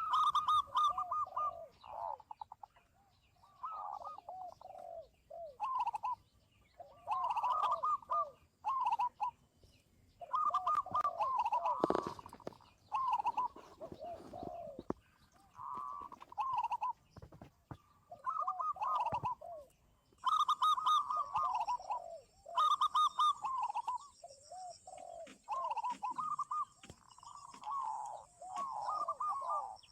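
Zebra doves cooing in a continuous series of overlapping phrases, each a quick run of repeated notes followed by rolling coos. About two-thirds of the way in, a faint steady high-pitched insect buzz joins them.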